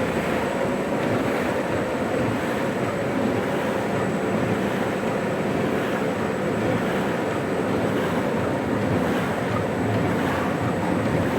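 Two-line plastic bag cutting machine running steadily: a continuous mechanical hum with a faint regular beat of cutting strokes.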